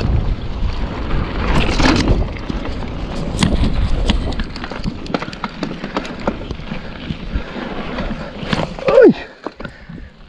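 Bicycle rolling down a rough, stony descent: tyre noise with constant clicking and rattling of the bike over the ground, and wind on the microphone. About nine seconds in there is a brief falling squeal, and the noise then drops off.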